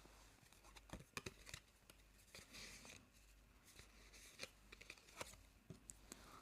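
Faint light clicks and soft rustling of small objects being handled, with a brief crinkle about two and a half seconds in.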